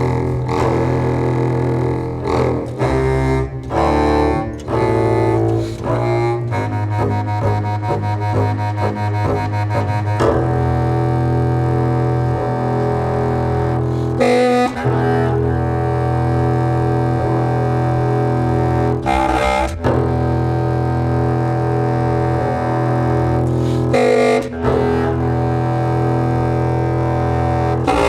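Contemporary chamber music for clarinet and double bass. For about the first ten seconds a fast, stuttering texture plays over a held low note. Then long, steady low notes follow, with brief breaks roughly every five seconds.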